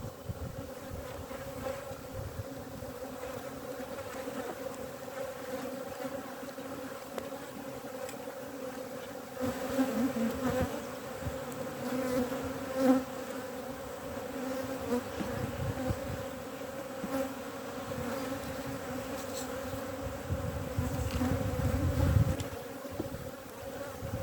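Honeybee colony buzzing around an open hive: a steady, even hum of many bees in flight, disturbed by the hive being opened. A few knocks and bumps come about halfway through.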